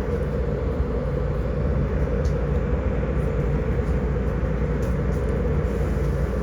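Steady low mechanical rumble at an even level.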